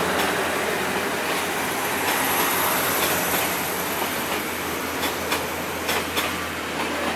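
Train running past with steady rumbling wheel and rail noise, several sharp clicks of wheels over rail joints in the second half, and a faint high squeal in the middle.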